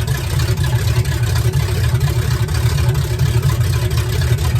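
Classic Ford truck engine idling steadily with a deep exhaust note. It runs on a carburetor that the owner believes needs rebuilding, which he suspects makes it tend to stall.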